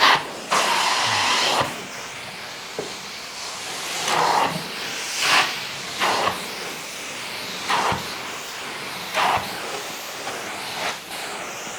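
Truckmount carpet-extraction wand working the pre-sprayed carpet: a steady suction hiss with repeated louder surges of spray and suction as the wand is pulled through strokes.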